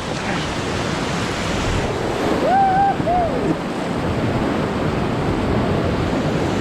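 Whitewater rapids rushing steadily around a raft on the Arkansas River. A person gives a short call partway through.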